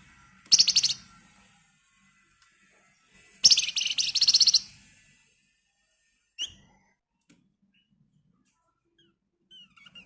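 A flamboyan songbird giving two loud, fast rattling trills, a short one about half a second in and a longer one around three and a half seconds in, followed by a single sharp chirp and a few faint chirps near the end.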